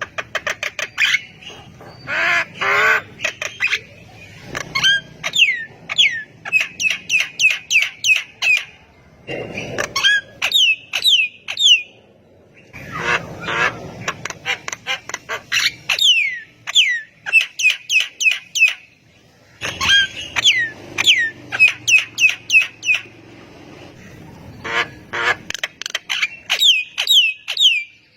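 Javan myna singing: phrases of harsh, chattering squawks and rapid clicks mixed with quick downward-slurred whistles, delivered in bursts with short pauses between them.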